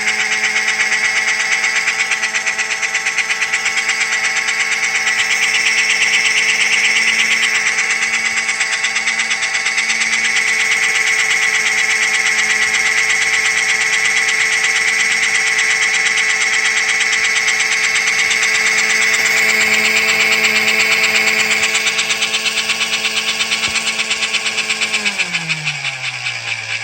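Small electric motor of an American Flyer HO scale locomotive running at a steady speed with a buzzing hum, then slowing, its pitch falling, near the end. The uploader blames the odd buzzing on a screwdriver touching the wood.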